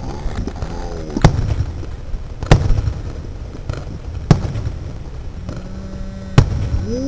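Aerial fireworks shells bursting overhead: four sharp booms spaced one to two seconds apart, over a steady low rumble.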